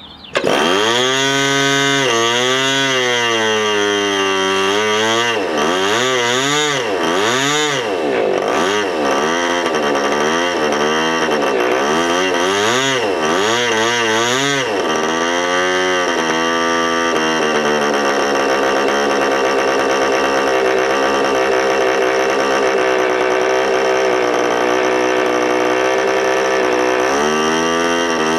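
OS .46AX two-stroke nitro glow engine on an RC P-51D Mustang model bursting into life and running, started for the first time in about seven years. It revs up and down repeatedly for the first fifteen seconds or so, settles to a steadier run, then surges again near the end.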